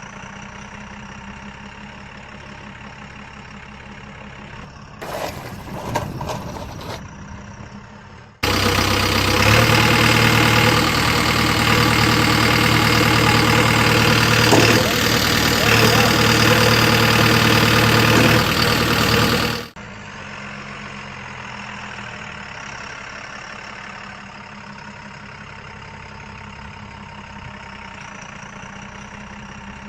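Vehicle engine idling steadily, broken by a much louder, noisier stretch of about eleven seconds in the middle that starts and stops abruptly.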